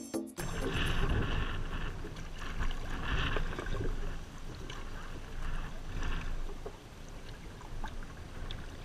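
Kayak paddling on a slow river: irregular paddle strokes splashing and dripping in the water, with wind rumbling on the microphone.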